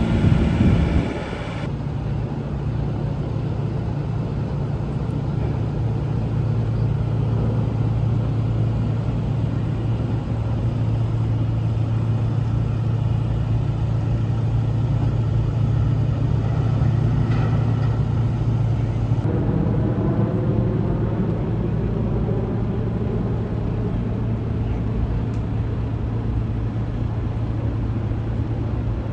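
Liebherr T 264 mining dump truck running with a steady low hum while on the move. The background changes abruptly about two seconds in and again around nineteen seconds in.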